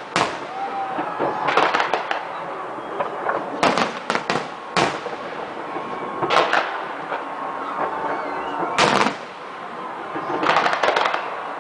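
Fireworks bursting: a series of sharp bangs every one to two seconds, some coming in quick clusters, over a steady background hiss.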